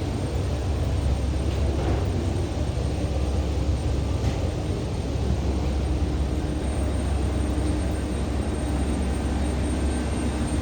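Steady low rumble of a parked Airbus A320 airliner, with a faint steady high whine over it.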